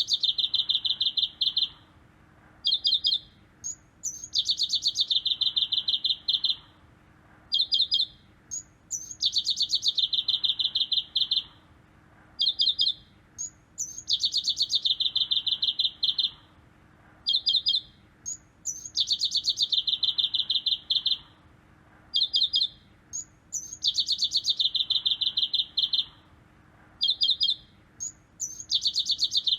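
A songbird singing the same phrase over and over, about every five seconds: a short, rapid, high trill, a brief higher note, then a long rapid trill of about two seconds.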